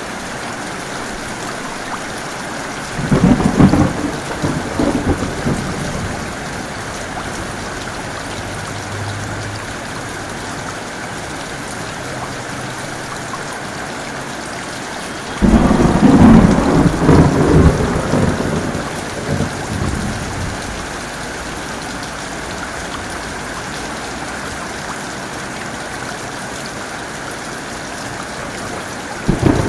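Steady heavy rain with thunder: a clap about three seconds in, a louder one that breaks in suddenly about halfway and rumbles away over several seconds, and a third starting right at the end.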